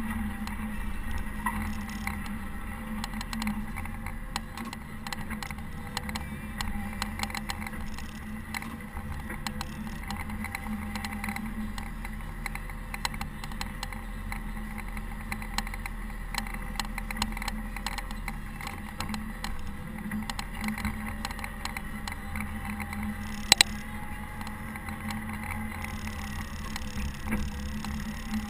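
Caterpillar TH330B telehandler's diesel engine running steadily while plowing snow, with light rattling clicks and one sharp knock late on.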